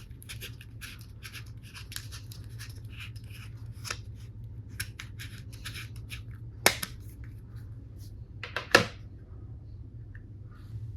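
Plastic toy tools and packaging being handled: a quick run of short scratchy, snipping strokes, then two sharp plastic clicks about two seconds apart, over a steady low hum.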